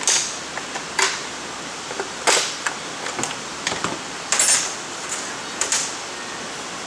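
Irregular sharp clicks and knocks of hand tools on a chainsaw, roughly one a second, as the saw is being disabled.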